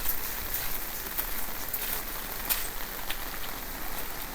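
Typhoon rain and wind: a steady hiss, with scattered sharp taps of drops hitting close by.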